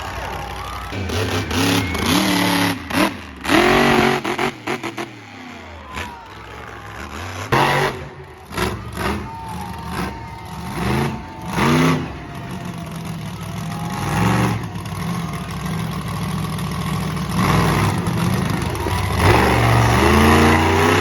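Monster truck engine revving hard again and again, its pitch sweeping up and falling back in bursts over a steady loud rumble.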